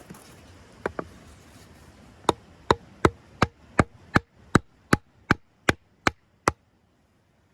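A tool striking wood: two knocks, then about a dozen sharp, evenly spaced blows at between two and three a second, stopping shortly before the end.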